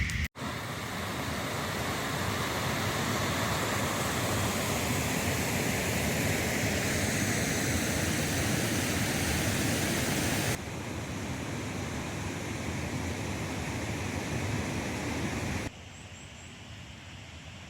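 Steady rushing of a river flowing. It drops abruptly to a quieter level about ten seconds in and again near the end.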